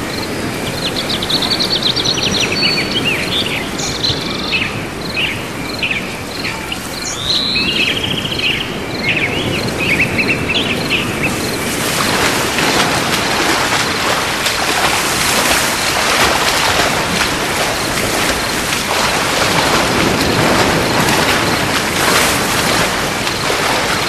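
Small birds chirping and twittering over a steady hiss of background noise. About halfway the birdsong stops and a louder, rougher hiss with dense crackling takes over.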